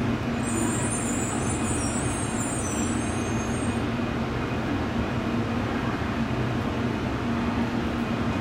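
Steady hum of a Shinkansen N700A train standing at the platform, its onboard equipment running, with a low constant tone under a wash of noise.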